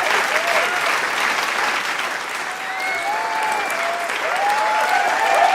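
Large crowd applauding and cheering: dense, continuous clapping with shouted cheers and whoops rising above it. It eases a little midway and swells again near the end.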